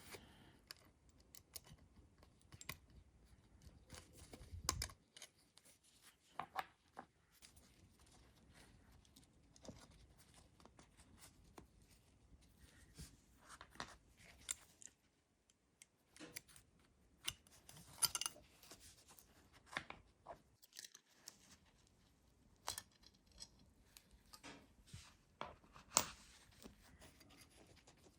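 Faint, irregular clicks, taps and short scrapes of hand work on small metal parts of a rusted revolver being cleaned.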